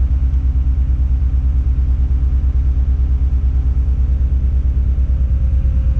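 Tadano 180G-5 all-terrain crane's diesel engine running steadily, heard from inside the operator's cab: a loud, low hum with a rapid, even pulse.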